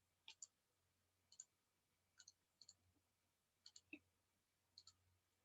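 Faint computer mouse clicks, mostly in quick pairs, about seven times over a few seconds; otherwise near silence.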